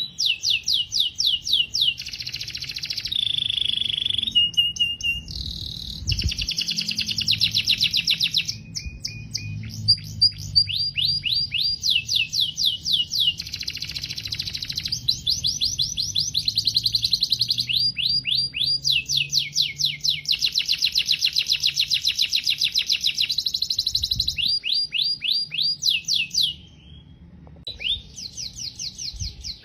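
Canary singing a long song of fast repeated trills and rolls, the note type changing every few seconds, with a brief pause near the end.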